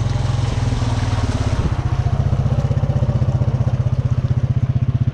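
Honda Rancher 420 ATV's single-cylinder four-stroke engine running at low speed with an even exhaust beat. The beat gets louder and more distinct about a second and a half in.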